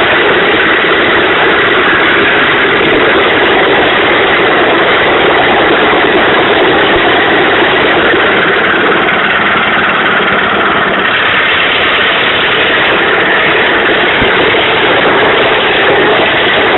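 Romanian-made tractor's engine running loud and steady, with no change in note.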